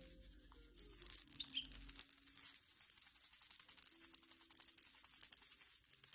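A maraca shaken rapidly in a continuous rattle, starting about a second in.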